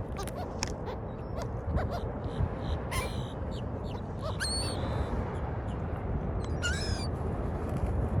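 Seagulls calling, a few short high cries that bend in pitch, heard mostly in the second half, with scattered light clicks over a steady low background noise.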